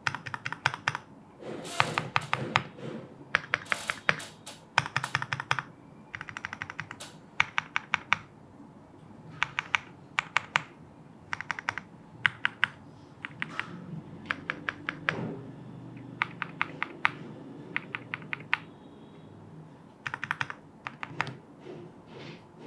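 Typing on a Lucky 65 aluminium-case mechanical keyboard: quick runs of sharp keystroke clicks separated by short pauses.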